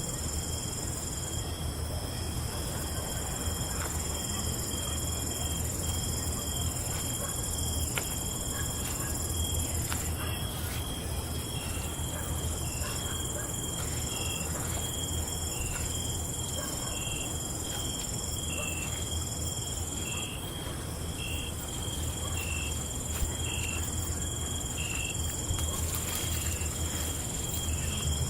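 Night insect chorus: several crickets trilling steadily at different pitches, one giving short chirps repeated about once a second. A low steady hum sits beneath.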